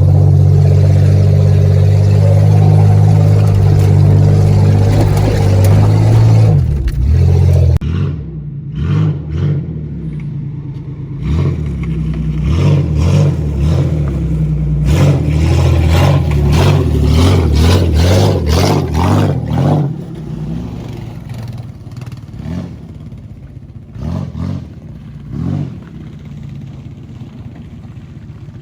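Car engine revving hard at full throttle for about the first seven seconds, then easing off and rising again unevenly while the car's body clatters and bangs over rough trail, with a few louder knocks near the end.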